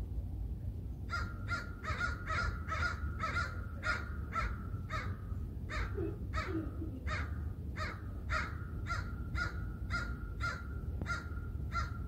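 A bird giving a long, even series of short repeated calls, about two a second, starting about a second in.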